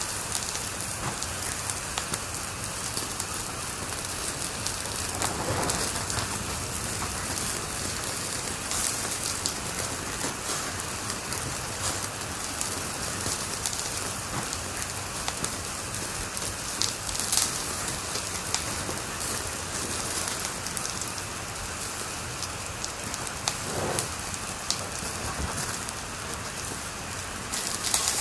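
Wood fire in a fireplace crackling steadily: a dense run of small crackles over a soft hiss, with a couple of duller pops.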